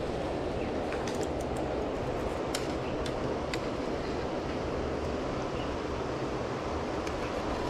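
Steady rush of flowing river water, with a few faint ticks in the first few seconds.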